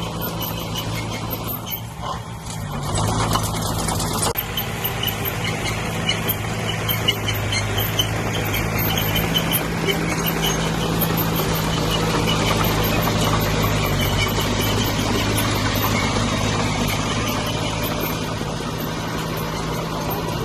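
Heavy diesel engine running steadily; about three seconds in it speeds up and gets louder, then holds there as if under load, with occasional clanks over it.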